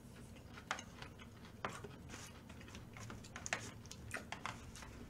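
Faint eating sounds close to the microphone: chewing, with a dozen or so small irregular clicks.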